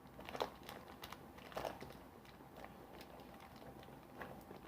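Faint close-up chewing and crunching of a BBQ Payday, a peanut-covered candy bar, with scattered crunches; the louder ones come about half a second and a second and a half in, and another near the end.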